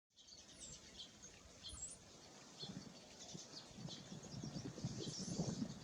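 Songbirds chirping: a string of short, high chirps and call notes with no clear repeating song phrase. A low rumble builds up underneath them toward the end.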